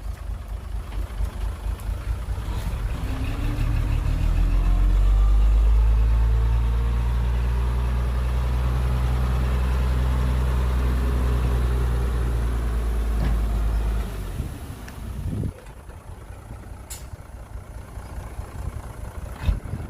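Heavy diesel engine of construction machinery running under load, rising in pitch and loudness over the first few seconds and holding steady, then dropping away sharply about two-thirds of the way through to a quieter idle, with a couple of sharp clicks near the end.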